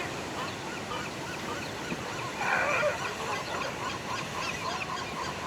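Many animals calling at once from a coastal colony, short honking calls overlapping, with a louder call about two and a half seconds in, over a steady wash of surf.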